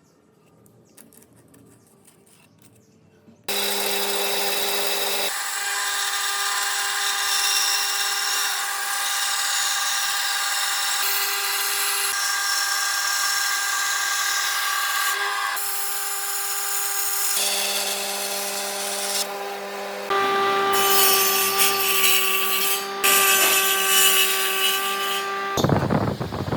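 A power tool working wood: a steady motor whine over a rasping cutting noise, starting suddenly about three and a half seconds in, with abrupt changes in tone where separate passes are joined together.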